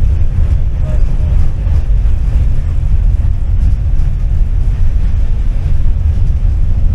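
Tram in motion: a steady low rumble of the car running along the track.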